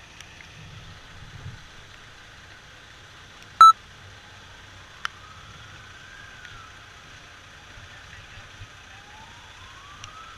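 Emergency siren sounding in slow wails, each rising in pitch and then falling, over a steady background rumble. A short, sharp, loud beep a little over three seconds in is the loudest sound, and a single click follows about a second later.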